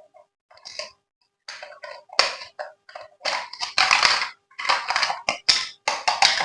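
Plastic packaging being handled, crinkling and rustling in irregular bursts that grow louder after the first couple of seconds.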